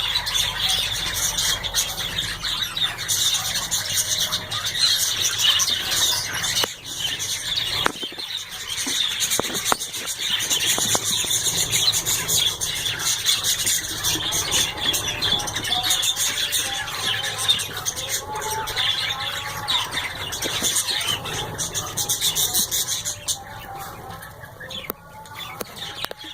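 Several cockatiels chattering and squawking continuously, many shrill overlapping calls, a little quieter near the end.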